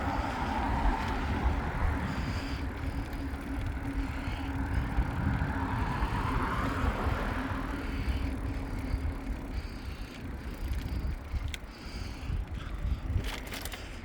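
Bicycle riding along a road: wind buffeting the microphone over tyre and road noise, with a steady low hum through the first half that fades out, and a few sharp clicks near the end.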